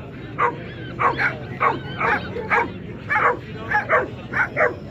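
Dog barking repeatedly in short, sharp barks and yips, about two a second.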